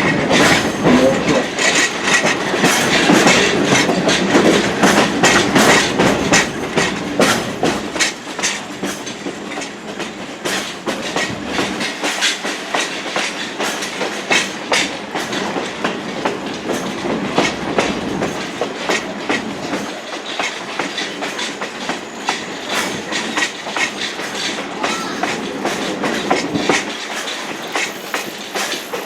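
Railroad passenger coach rolling along the track, its wheels clicking and clattering over rail joints with a continuous rumble, louder for the first several seconds.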